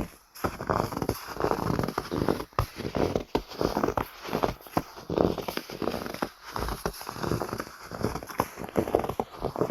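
Footsteps crunching through snow at a steady walking pace, each step a short burst of packed snow squeezing underfoot.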